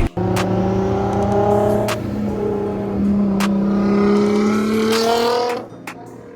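Car engine running with a steady, even hum that climbs slowly in pitch, then drops away abruptly about five and a half seconds in. A few short sharp clicks sound over it.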